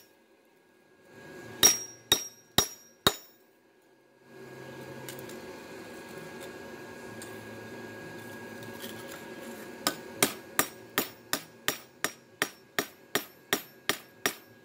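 Hammer blows on a hot saw-blade knife being forged: four ringing strikes, a pause, then a steady run of quicker strikes, about two or three a second, in the last few seconds. From about four seconds in, a steady hum runs underneath, which fits the small electric forge blower running.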